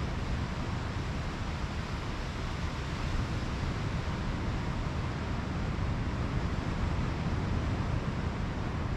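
Pacific Ocean surf washing steadily onto a sandy beach, with wind rumbling on the microphone.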